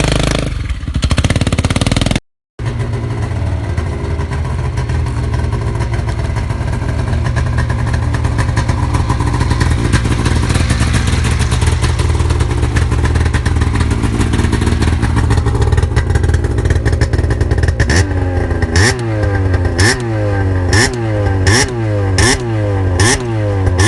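Engine of a 2000 Polaris XC 700 snowmobile, a two-stroke twin on its stock exhaust, running steadily at idle. Near the end its throttle is blipped about once a second, each rev rising sharply and falling away. A different engine is heard for the first two seconds, before a brief silent cut.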